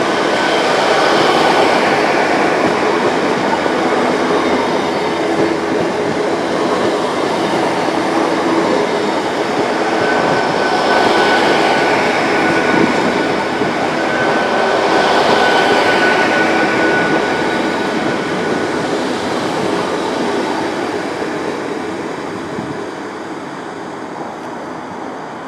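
A Great Western Railway Hitachi Intercity Express Train running past, its wheels giving a steady rumbling rush on the rails, with a faint high whine in the middle. The sound dies away over the last few seconds as the rear of the train draws off.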